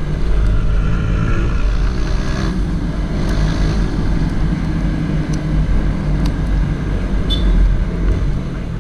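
Honda CG Titan 160 single-cylinder motorcycle engine running steadily while riding, under a dense low rumble, with a few faint ticks.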